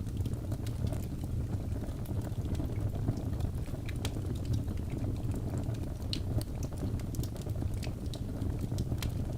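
Birch logs burning in a fireplace: a steady low rumble of flames with frequent sharp crackles and pops scattered through.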